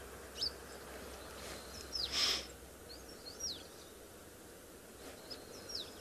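Small birds calling: short, high, falling chirps, singly and in little clusters, scattered across a faint outdoor background. A brief rush of noise, the loudest moment, comes about two seconds in.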